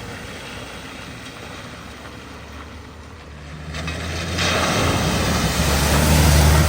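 A vehicle's engine growing louder as it drives into the flooded ford. The rush of water thrown up by its wheels builds from about four seconds in and is loudest near the end.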